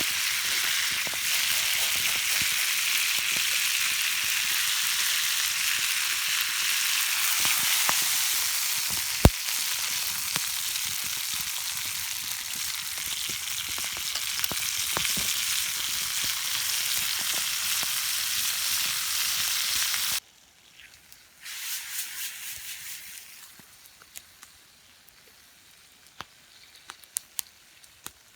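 Food sizzling and frying over an open campfire: a steady hiss with occasional pops. It cuts off suddenly about twenty seconds in, then comes back faintly for a moment, and after that only sparse crackles are left.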